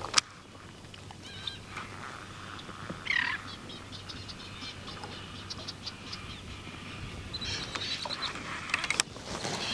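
Birds calling: scattered high chirps, one falling call about three seconds in, and runs of quick ticking notes. A sharp click comes just after the start and another near the end.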